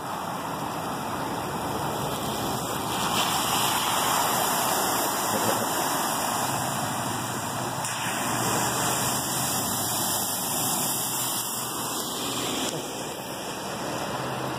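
Floodwater rushing over a roadway: a steady rushing of water that swells slightly a few seconds in.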